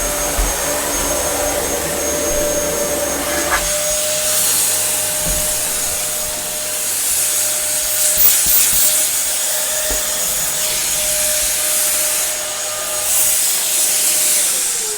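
Dyson DC07 bagless upright vacuum cleaner running, a steady motor whine over rushing air. Near the end its pitch falls and it gets quieter as the motor winds down.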